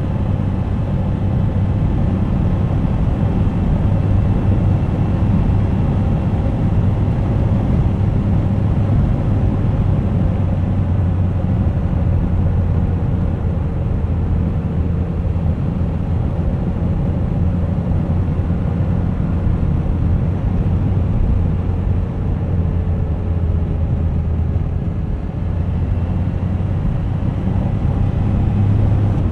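Suzuki GSX1250FA's inline-four engine running steadily under way at an even speed, with a low hum and a slight dip in level near the end.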